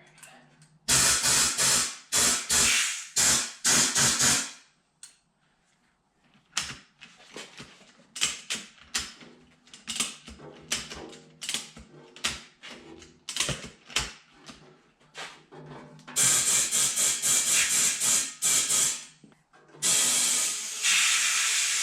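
Compressed air blasting from an air hose into a tractor tire to seat its bead on the wheel: several short bursts, then a run of ratchet-strap clicks as the strap squeezing the tire is cranked tighter, then longer air blasts near the end.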